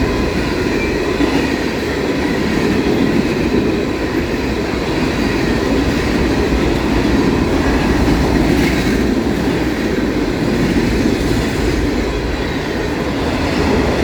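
Freight cars of a long mixed freight train rolling past close by at about 40 mph: a steady, loud rumble of steel wheels on rail with some clickety-clack.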